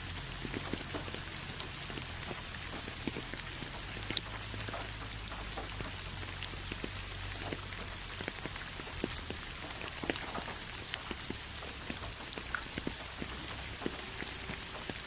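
Steady rain falling, a constant hiss with many separate drops tapping and pattering on a hard surface.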